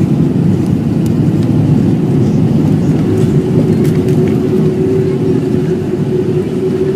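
Loud, steady rumble inside the cabin of an Airbus A380 during its landing, with a steady hum joining about three seconds in.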